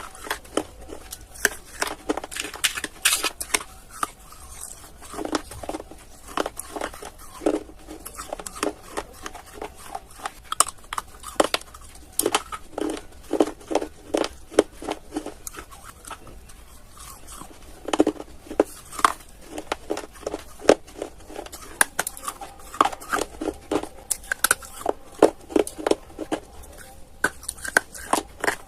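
Close-miked biting and chewing of hard clay pieces: rapid, irregular crisp crunches in bursts, with brief pauses between bites.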